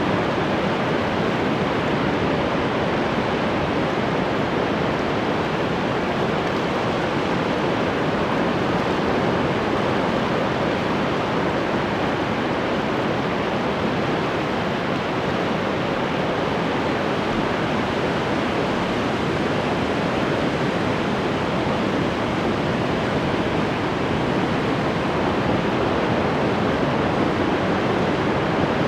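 Ocean surf: a steady, dense rush of breaking and washing waves.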